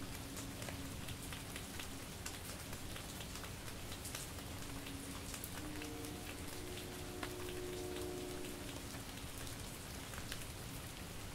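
Steady light rain and drizzle falling, with many individual drops ticking sharply close by. A faint low hum of several steady tones comes in about halfway through and fades before the end.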